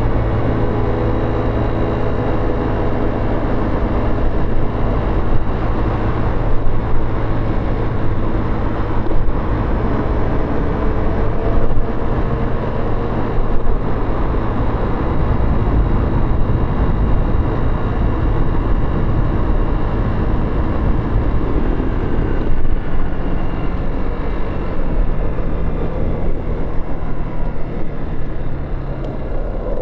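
Motorcycle engine running on the move, under a steady rush of wind and road noise; its pitch rises several times as it accelerates.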